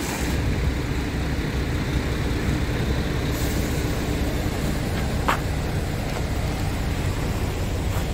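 Scania R450 truck's 13-litre six-cylinder diesel engine running with a steady low rumble, with one brief sharp sound a little over five seconds in.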